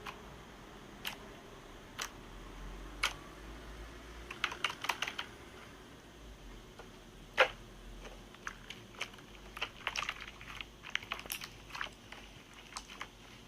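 Scattered light clicks and taps, some single and some in quick irregular clusters, with one louder click about seven seconds in.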